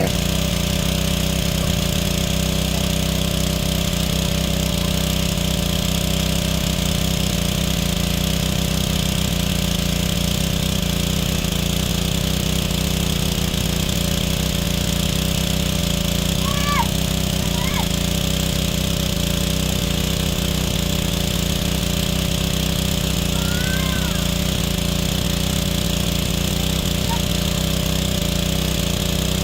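Small petrol engine running steadily at a constant speed.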